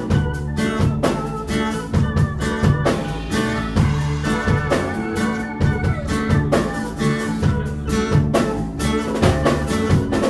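Live rock band playing an instrumental passage: electric guitar over bass and drum kit keeping a steady beat, with no singing.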